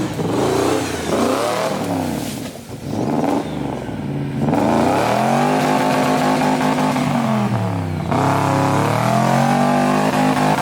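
Off-road competition 4x4 truck's engine revving hard. The revs rise and fall unevenly for the first few seconds, then climb and are held high. They dip briefly about eight seconds in and climb again.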